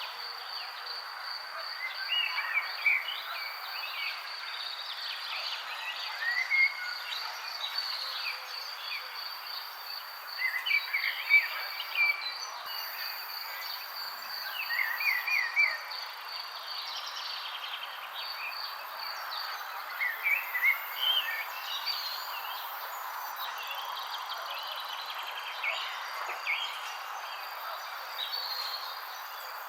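Several birds chirping in short scattered calls over a steady, fast-pulsing high insect trill, like a cricket's, and a continuous background hiss.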